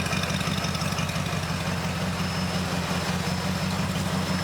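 Car engine idling steadily, an even, fast-pulsing low exhaust note.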